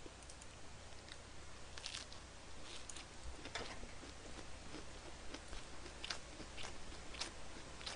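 Faint close-miked chewing of a large mouthful of leaf-wrapped grilled pork belly, with scattered soft clicks and crunches.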